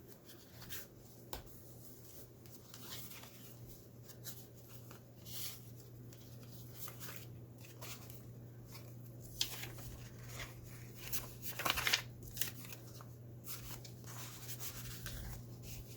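Paper pages of a handmade junk journal being turned and handled, with soft intermittent rustles and crackles, a cluster of louder rustles about eleven to twelve seconds in. A steady low hum runs underneath.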